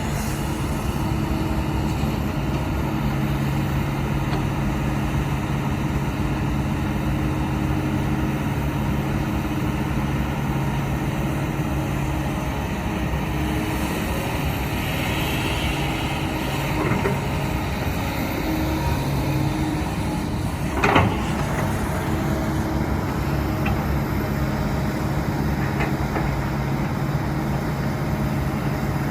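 Diesel engine of a heavy earthmoving machine running steadily under work, with a single sharp metallic clank about 21 seconds in.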